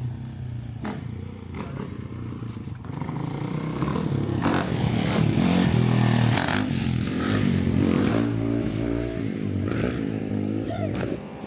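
Motorcycle engine revving as it passes. It grows louder to a peak in the middle, its pitch rising and falling, then eases off.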